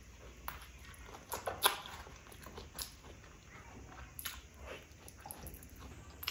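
Close-up mouth sounds of biting and chewing a soft white Khmer dessert held in a banana leaf: irregular wet smacks and clicks, the loudest about a second and a half in.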